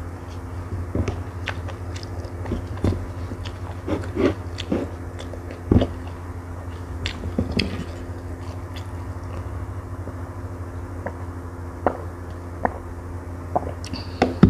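Close-miked chewing of a mouthful of rice: soft wet mouth clicks and smacks, frequent in the first half and thinning out later. A steady low hum runs underneath.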